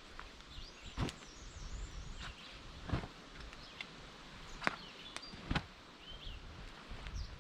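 Small birds chirping with short calls that bend in pitch, over a steady outdoor hiss, and four sharp knocks or snaps a second or two apart.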